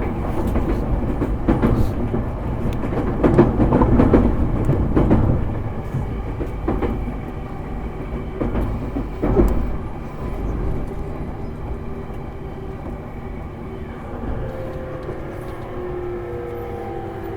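Interior running noise of an E231-series commuter train's motor car, heard from inside as it slows into a station. Wheels clatter and click over rail joints and points during the first ten seconds. The noise then eases and the whine of the traction inverter rises in the last few seconds as the train brakes.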